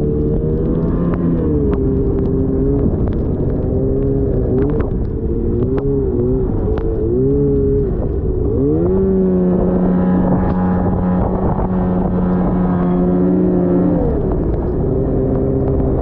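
2010 Arctic Cat CFR 1000 snowmobile engine running under throttle, its pitch rising and falling several times, then held steady for several seconds before dropping near the end. Short clicks and knocks sound over it.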